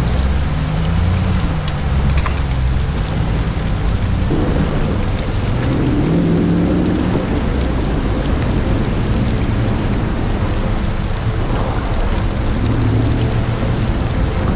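Heavy rain falling, with a Jeep's engine running at low revs underneath, its note shifting up and down as it drives.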